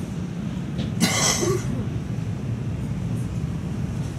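Passenger train rolling along the rails with a steady low rumble, heard from inside the coach, with a brief hiss about a second in.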